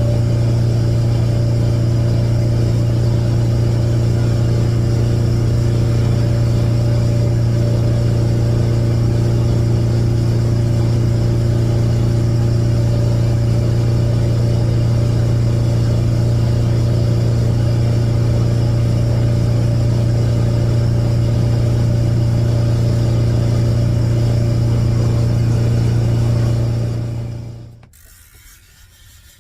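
Bayliner Capri's boat engine running steadily at constant speed under way, a loud even drone, which dies away about two seconds before the end.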